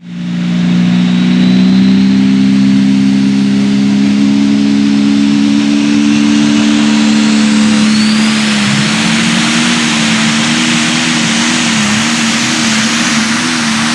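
Turbocharged diesel engine of a Limited Pro Stock pulling tractor running loud at high, steady revs, its pitch dipping briefly twice about nine and twelve seconds in.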